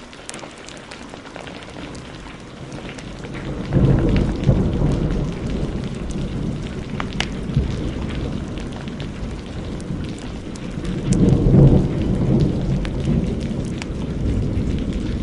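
Thunder rumbling over heavy rain: a low rumble breaks in about four seconds in and swells again later. Sharp crackles and pops from a wood fire are scattered through it.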